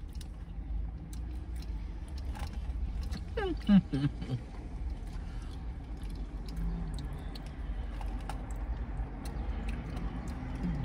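A person chewing a mouthful of chili, with small wet clicks and smacks, over a steady low rumble. About three and a half seconds in comes a short vocal sound that falls in pitch.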